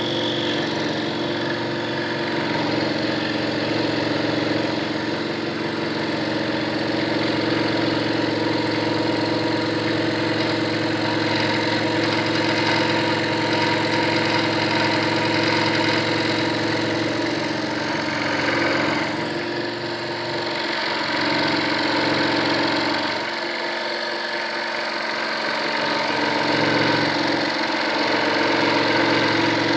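Scroll saw running steadily, its reciprocating blade cutting through wood with a constant motor hum and chatter. The low hum thins out a little past two-thirds of the way through.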